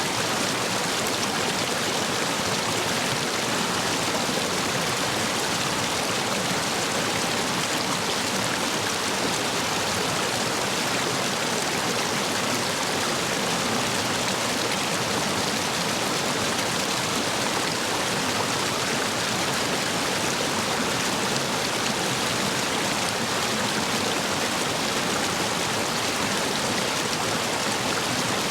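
Steady rush of a stream running high after heavy rain, water pouring and splashing over and between stepping stones.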